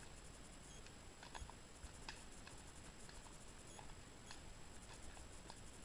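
Faint, irregular clicks and taps of a horse walking, hooves and tack, over a low steady rumble.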